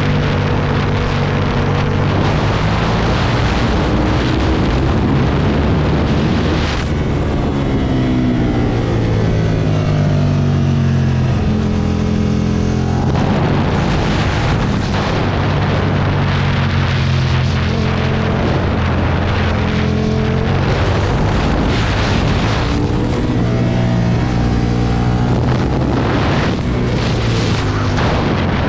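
Aprilia Tuono V2 1000 V-twin motorcycle engine at speed on a track, pulling hard and rising in pitch, then dropping sharply at gear changes or braking, several times over. Wind rushes over the microphone throughout.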